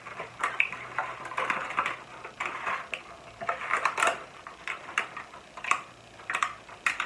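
Close-up chewing of a bite of caramel apple coated in sprinkles: irregular crunches and clicks.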